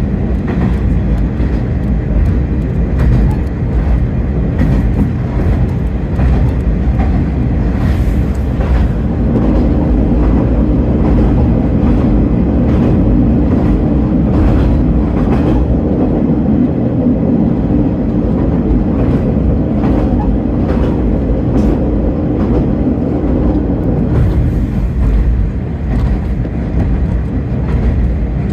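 Diesel railcar of the Kanto Railway Ryugasaki Line running, heard from inside: a steady low engine drone and rumble of wheels on the track, with scattered clicks. The engine note grows stronger about ten seconds in and eases again near the end.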